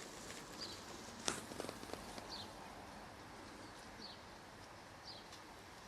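A bird repeating a short, high chirp four times, one every second or two, over faint open-air background noise. A single sharp click comes about a second in.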